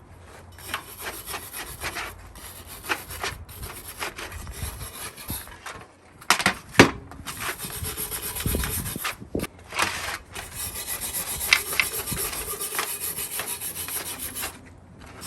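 Steel wire brush scrubbing vinegar-soaked surface rust off an antique wood stove part: steady, rapid back-and-forth scraping strokes. About six seconds in the scrubbing pauses briefly with a couple of sharp knocks, then carries on until it stops near the end.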